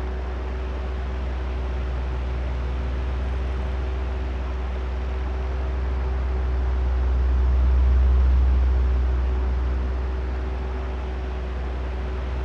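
Oscillating electric fan running: a steady airy rush over a low hum with a faint steady motor tone. It grows louder about two-thirds of the way through as the fan head sweeps past, then eases off again.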